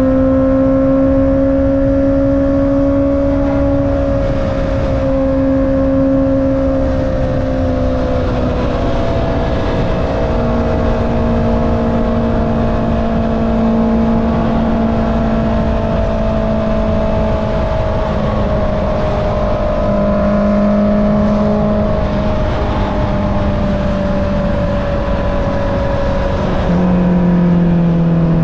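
Honda CB650R inline-four with an Akrapovic exhaust, running steadily at cruising speed under the rider, with a steady rush of wind. The engine note holds nearly level, sagging slightly in pitch now and then, with a small drop and a slight rise in loudness near the end.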